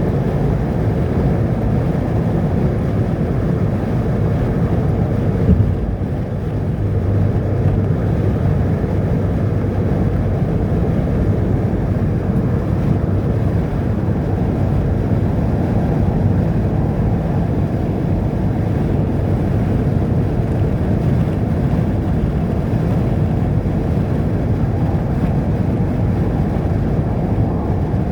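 Steady low rumble of a vehicle on the move, engine and road noise, with some wind noise and a brief knock about five and a half seconds in.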